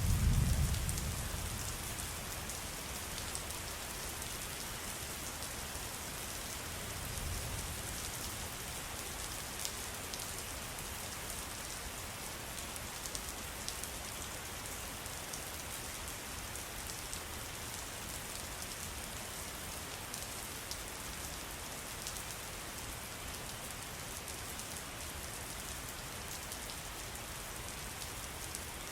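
Steady rain pattering, with many fine drop ticks, and a low rumble in the first second or so and again, softer, about seven seconds in.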